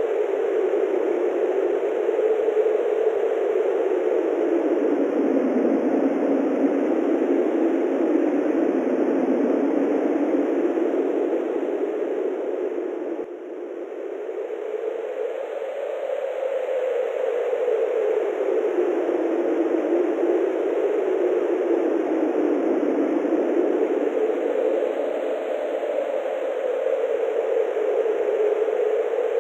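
Steady wind blowing, its pitch slowly rising and falling, with a brief lull about thirteen seconds in.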